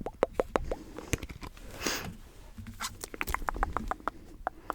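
Pokémon trading cards handled close to the microphone: an irregular run of small clicks and taps as the cards are flicked and shuffled, with a short rustling swish about two seconds in.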